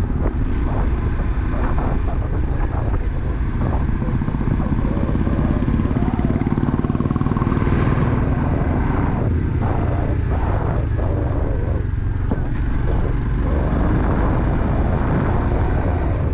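Motorcycle engine running steadily while riding, with a dense low rumble of wind and road noise.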